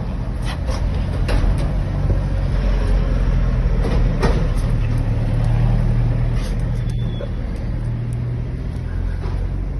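A motor vehicle's engine running close by, a steady low rumble, with a few light clicks on top.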